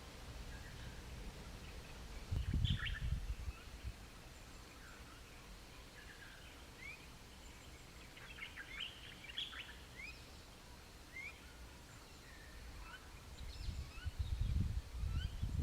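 Birds chirping with short rising calls over a low background hum, broken by two spells of low rumbling, one about two and a half seconds in and one near the end.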